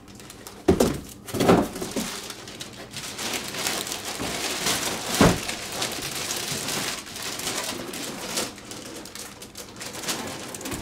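Cardboard and plastic packaging rustling and scraping, with a few knocks, as the boxed airframe of a large model airplane is unpacked.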